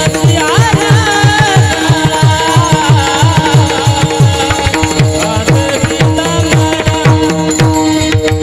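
Marathi devotional bhajan (a kirtan panchapadi): a voice singing a wavering melody over steady held notes, with quick hand-drum strokes that slide down in pitch, about four a second.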